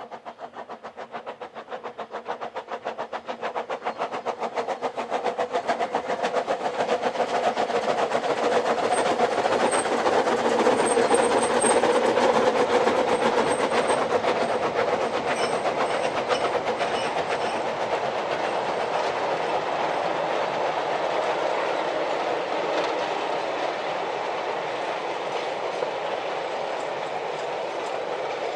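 Ffestiniog Railway narrow-gauge train of small coaches and slate wagons rolling across a bridge overhead, its wheels clattering rapidly and steadily over the rail joints. The clatter grows louder as the train comes over, peaks about a third of the way in, then eases off slightly.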